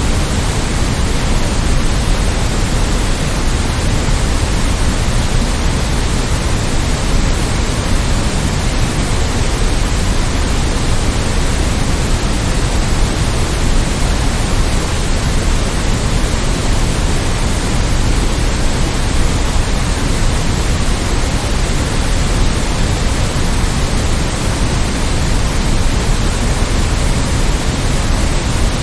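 Steady generated noise of the kind sold as white noise for sleep: an even, unchanging hiss across all pitches, fuller in the low end.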